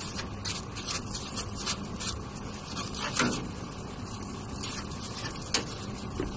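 A brush scrubbing dust and poplar fluff off an air conditioner's outdoor condenser fins in irregular scraping strokes, over a steady low hum. The loudest stroke comes about three seconds in, and there is one sharp click about five and a half seconds in.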